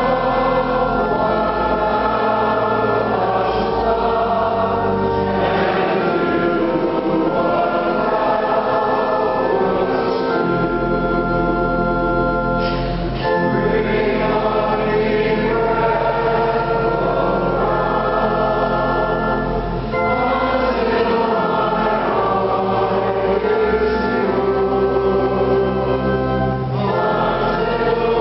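A group of voices singing sacred music with organ accompaniment, in held chords over sustained low organ bass notes.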